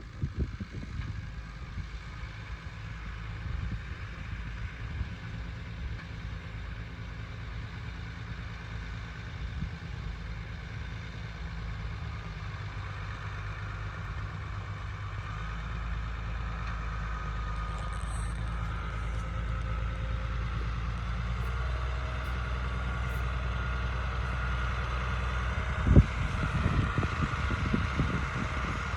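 Leyland 2100 tractor's diesel engine running steadily while pulling a plough, growing louder from about halfway through, with one sharp knock near the end.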